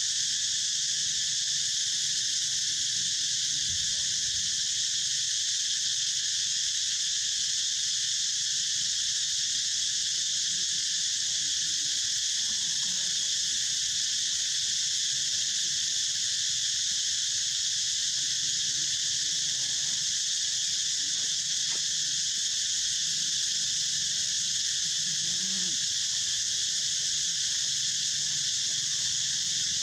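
Steady, high-pitched chorus of insects, a continuous shrill buzz that holds at one level without pause.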